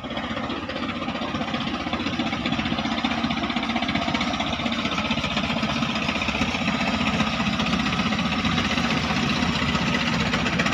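Klotok river boat engine running steadily with a fast, even chugging.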